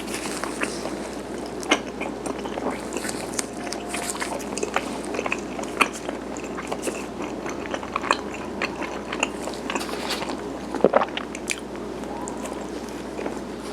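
Close-miked chewing of garaetteok, chewy Korean rice cake: a continuous run of small wet mouth clicks and smacks, with a sharper cluster of clicks a little before the end.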